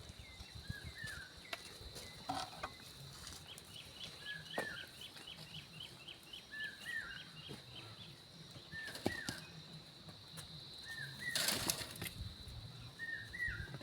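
Birds calling: a short two-note call repeated every couple of seconds, with a fast run of high chirps, about three a second, in the middle. A steady high insect drone runs underneath, and there is a brief rustle near the end.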